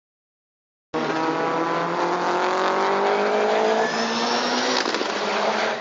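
Silence for about a second, then the sound of racing trucks cuts in loud: diesel race-truck engines running hard, their note falling steadily over the next few seconds, with a change in the sound near the end.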